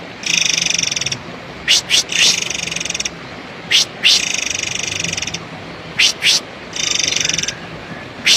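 Murai air bird calling: harsh, buzzy, rapidly pulsed trills of about a second each, alternating with short, sharp, rising whistles, repeated four times.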